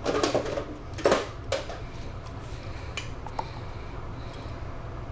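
Clatter of small hard objects being handled, several sharp knocks in the first second and a half, then a few scattered lighter clicks, over a steady low hum.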